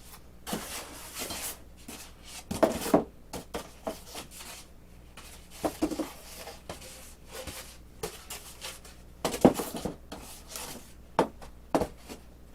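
RC airplane parts being handled and fitted into their packing box: irregular rubbing, rustling and light knocks, with a few sharper knocks about a quarter of the way in and again near the end.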